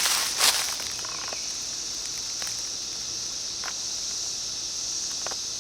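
Chorus of Brood X 17-year periodical cicadas, a steady high-pitched drone. A short, loud rustling noise about half a second in.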